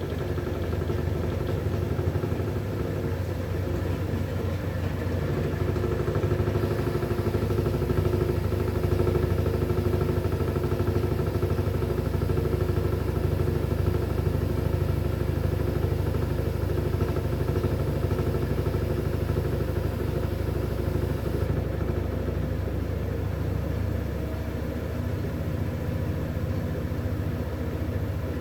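V-Zug Unimatic SL washing machine (2011) running: a steady motor hum with drum rumble, getting a little louder and brighter about six seconds in and easing back near the end.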